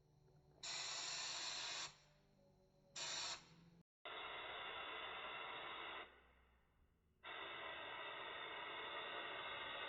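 Compressed-air spray gun hissing as it sprays bed liner coating, in bursts that start and stop sharply as the trigger is pulled and released: a burst of about a second, a shorter one, then longer spells of spraying with a pause of about a second between them.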